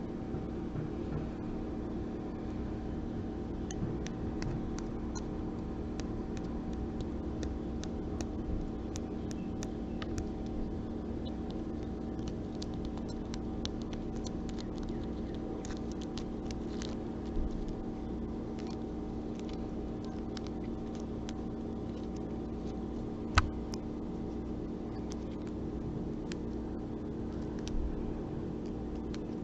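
Faint, scattered small clicks and light scratching over a steady low hum, with one sharper click about three-quarters of the way through.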